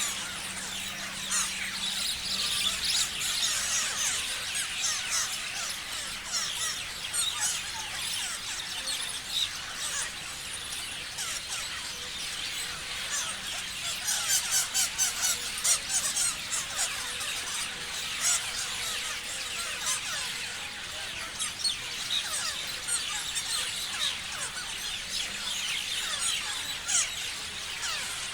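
Many parrots chirping and screeching at once: a dense, unbroken chatter of short, high, gliding calls, with a burst of rapid sharp calls around the middle.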